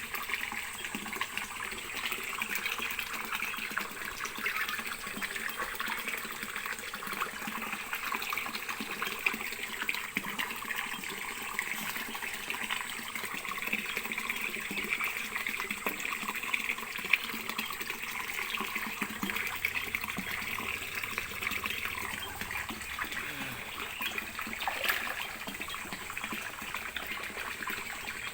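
Steady trickling, splashing water, running evenly throughout.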